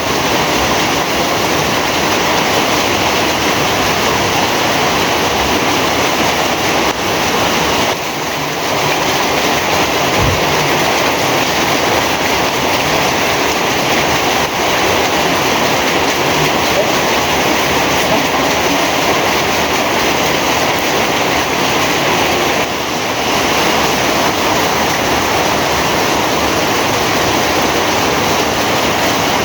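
Heavy rain falling steadily as a dense, loud hiss, with brief slight lulls about eight seconds in and again a little past twenty seconds.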